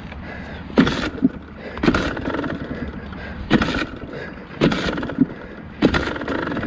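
KTM dirt bike running over rough ground, with sharp loud surges of noise about once every second or so over a steady low rumble.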